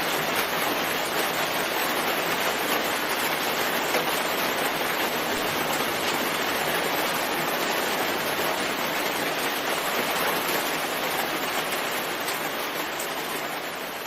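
Steady, dense rainfall, fading out near the end.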